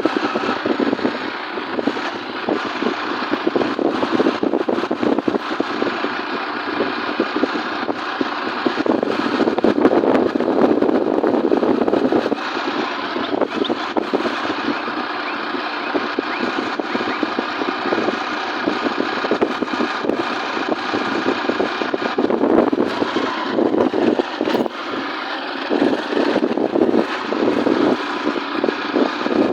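Motorcycle running steadily on the move, a continuous engine and rushing road noise with no break.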